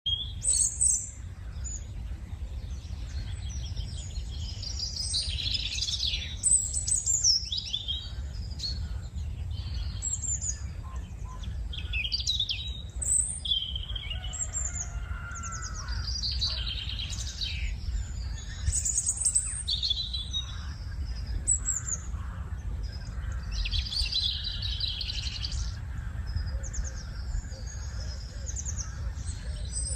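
Several birds singing and calling over one another in short chirps and trills, with a steady low rumble underneath.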